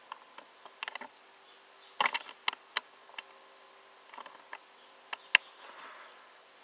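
Light clicks and taps of a 1:18 scale diecast model car being handled, the loudest cluster about two seconds in and a sharp single click a little after five seconds.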